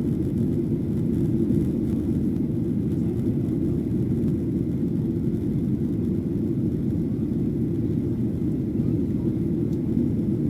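Steady low cabin rumble of a Boeing 737-800 airliner, engine and airflow noise heard from inside the passenger cabin.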